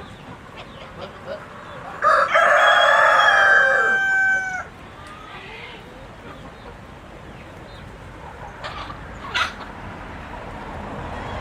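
Rooster crowing once, about two seconds in, a single crow of roughly two and a half seconds that bends down in pitch at its end. Chickens make a few short calls later on.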